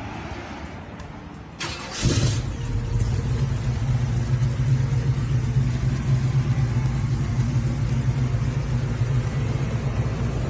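Chevrolet Chevelle's engine cranking briefly and catching about two seconds in, then idling steadily through its MagnaFlow dual exhaust.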